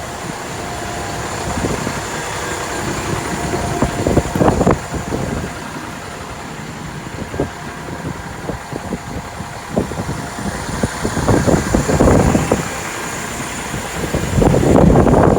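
Strong typhoon wind gusting and buffeting the microphone, with irregular low thumps. The gusts swell around four seconds in, again around eleven to twelve seconds, and strongest near the end.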